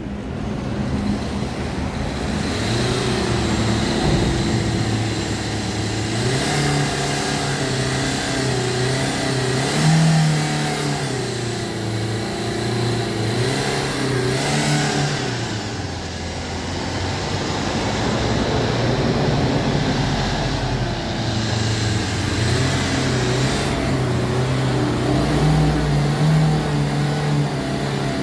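Car engine running and being revved up and down in slow swells, its pitch rising and falling every few seconds, during an engine decarbonising service.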